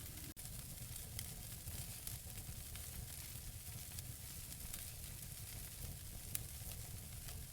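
Wood fire burning in a fireplace: a steady low rumble and hiss from the flames, with scattered sharp crackles and pops from the burning logs, one pop louder than the rest about six seconds in.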